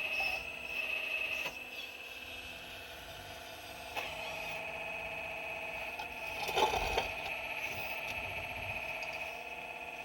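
4200XL excavator working with a steady high-pitched whine, with a click about four seconds in and a scrape about two-thirds of the way through as the bucket works against rock.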